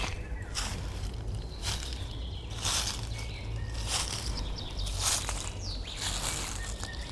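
Footsteps walking on a forest path, about one step a second, with faint bird chirps and a steady low rumble underneath.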